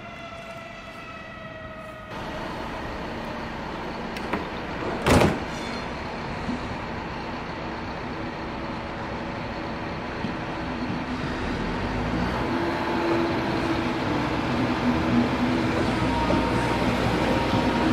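Passenger coaches of a locomotive-hauled train rolling slowly past, their wheels running on the rails and growing steadily louder, with one sharp metallic clank about five seconds in. Steady tones join in during the second half. For the first two seconds there is only a faint, slightly falling whine from a distant approaching train.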